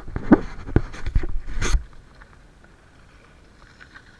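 Mountain bike clattering and knocking over bumps on a dirt trail, with a rumble of tyres and wind, for about two seconds; then it goes quiet.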